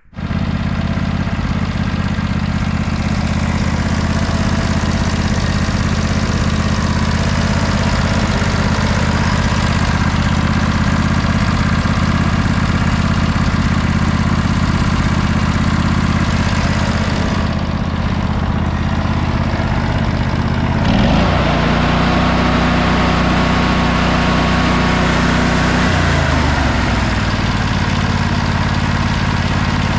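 Sabre by John Deere lawn tractor's twin-cylinder engine running steadily, then revving up about two-thirds of the way through and dropping back down about five seconds later.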